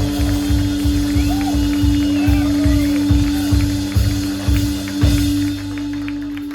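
Live band playing the closing bars of a song: one note held over steady drum hits, the drums stopping about five and a half seconds in as the song ends.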